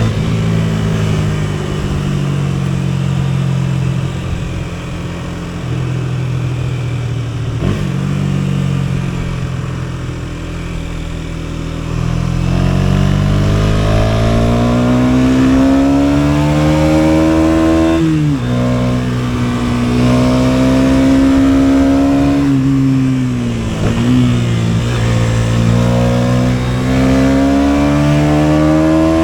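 KTM 250 Duke's single-cylinder engine pulling the motorcycle along. Its note holds fairly steady at first, then climbs for several seconds before dropping sharply at an upshift about two-thirds of the way through. It climbs again and drops at another shift near the end.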